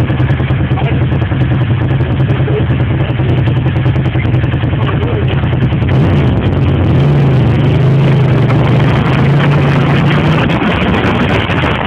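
Suzuki TL1000R's 90-degree V-twin heard on board at road speed, with wind noise. About six seconds in, the engine note dips briefly, then rises and holds higher for a few seconds as it pulls harder, settling back near the end.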